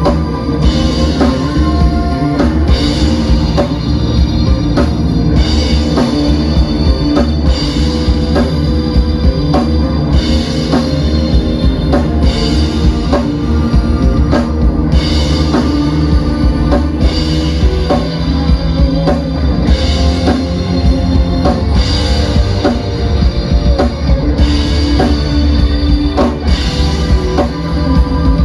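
A live rock band playing an instrumental passage: drum kit with a steady beat, electric guitar and bass, heard through the crowd's recording at the show.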